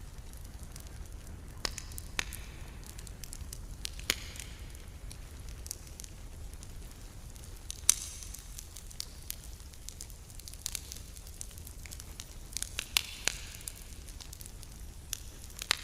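Campfire crackling: burning wood gives irregular sharp snaps and pops, the loudest about halfway through, over a steady low rumble.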